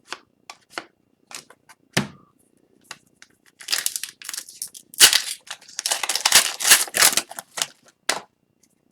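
A few light clicks of cards being handled, then a hockey card pack's wrapper being torn open and crinkled in a run of loud crackling tears for several seconds.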